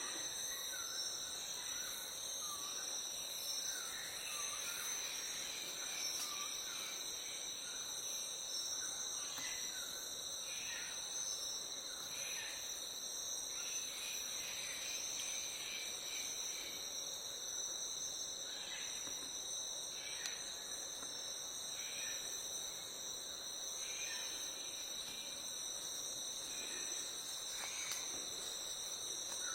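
Steady high-pitched insect chorus, with short chirping calls scattered through it every second or two.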